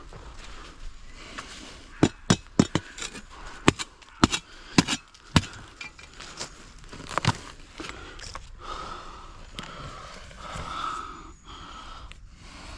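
Metal detecting in a field: a quick run of sharp knocks and clicks, then from about eight seconds in a wavering high tone from the metal detector's signal.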